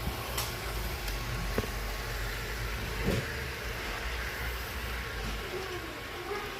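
Piko H0-scale model train running along its track: a steady motor hum and wheel rumble, with three sharp clicks as it passes over rail joints.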